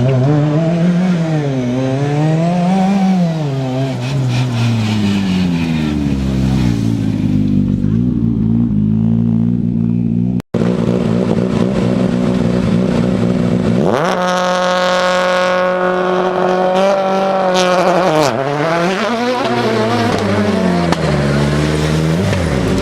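Rally car engines revving hard through rapid gear changes, pitch swinging up and down, as the cars drive a special stage. An abrupt cut about ten seconds in, then a second car climbing steeply in revs, holding a steady high pitch, and dropping and rising again through gear changes near the end.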